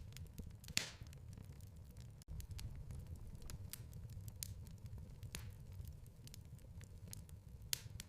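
Wood fire crackling in a fireplace: a low steady rumble of burning with scattered small crackles and a few louder pops, the loudest about a second in and another near the end. The sound cuts out for an instant a little after two seconds in.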